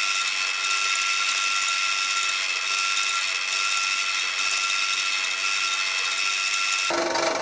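An electric power tool running steadily with a high whine, shifting abruptly to a lower, rougher sound near the end.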